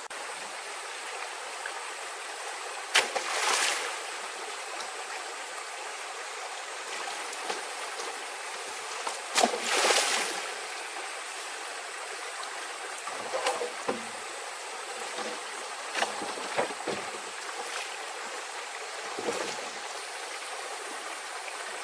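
Steady rush of running water, like a stream, with a few short louder splashes or knocks, the biggest about three seconds and ten seconds in.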